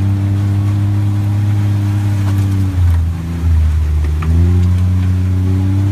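Car engine running steadily while driving, its pitch dipping about halfway through as the revs fall and climbing back about a second and a half later.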